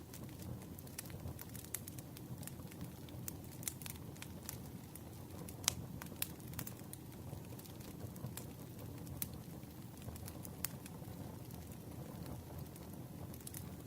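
Campfire crackling: irregular sharp pops and snaps over a steady low rumble, with one louder pop a little before halfway.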